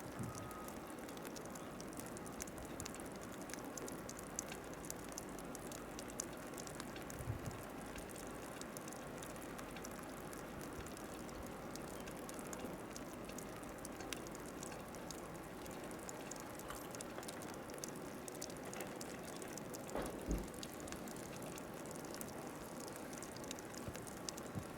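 Steady hiss of a snowstorm with many faint fine ticks, and a low thump about 7 seconds in and another about 20 seconds in.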